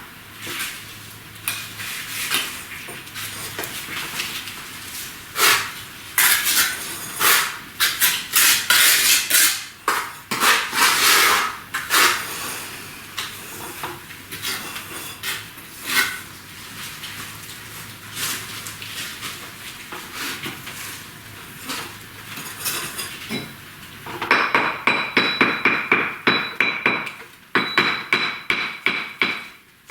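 Bricklaying work: a trowel scraping mortar and clinking against bricks in irregular knocks and scrapes, then near the end a quick run of ringing taps, several a second, as a brick is tapped down into its bed.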